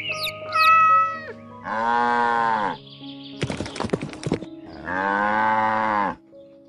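A cow mooing twice, each moo about a second long, rising and falling in pitch, around two and five seconds in, over soft background music. Bird chirps fade out in the first second, and a short stretch of clicking falls between the two moos.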